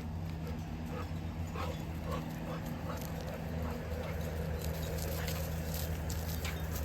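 Dog whimpering softly in a string of short, faint whines through the first few seconds, over a steady low hum, with faint clicks later on.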